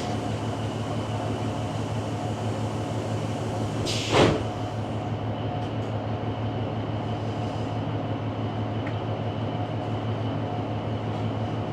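Inside a diesel passenger train standing at a station stop: the engine and ventilation keep up a steady low hum. A short swishing sound comes about four seconds in.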